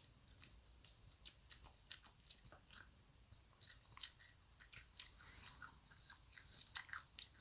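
Close-up chewing and biting of soft Korean fish cake (eomuk): a steady run of small mouth clicks, with a couple of short hisses about five to seven seconds in.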